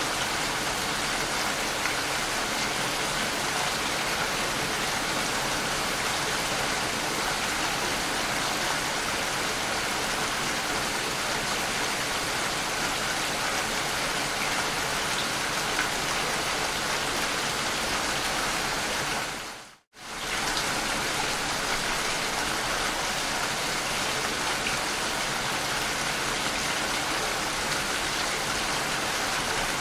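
Steady, even rain. It fades out almost to silence for under a second about two-thirds of the way through, then comes straight back.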